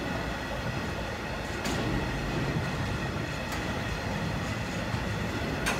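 A train rolling past on the rails: a steady rumble of wheels on track, with a sharp click every couple of seconds.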